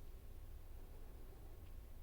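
Quiet background: a steady low rumble with a faint hiss and a faint thin steady tone, and no distinct sound events.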